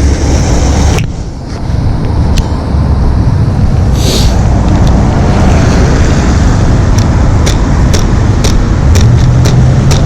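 Steady wind rush and wet road noise from riding an e-bike through the rain, with a dip about a second in and several sharp ticks in the second half.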